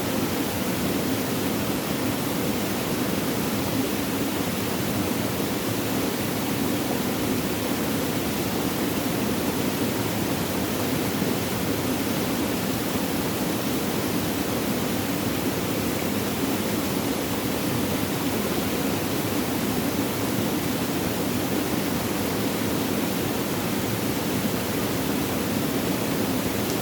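Flowing water, a steady unbroken rush.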